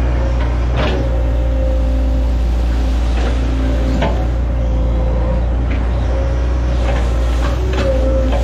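Hitachi Zaxis 110 excavator's diesel engine running steadily under load, with a wavering hydraulic whine and several short sharp knocks and cracks scattered through.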